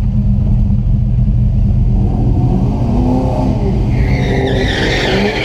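LT1 V8 in a Chevy S10 mini truck running loudly, then revving up in rising pitch from about two seconds in as it accelerates off the line on a drag run. A high hiss joins near the end.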